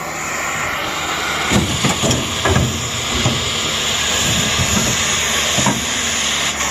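Cutting torch hissing steadily as it cuts through scrap metal.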